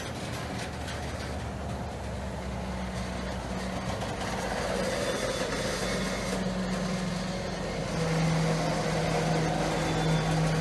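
Norfolk Southern double-stack intermodal freight train passing: a steady rumble of well cars rolling on the rails, slowly growing louder, with a low steady drone that strengthens about eight seconds in.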